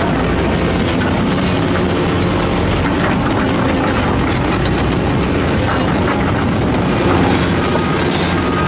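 Large hydraulic excavator's diesel engine running steadily under load, with scattered metal clanks and a few short high metallic squeals near the end.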